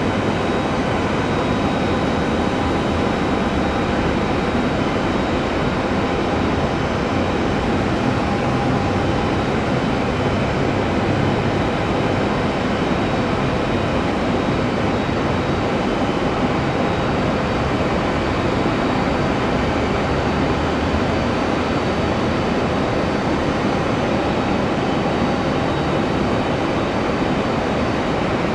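Jet airliner engines running steadily: a broad, even rumble with faint high whine tones over it.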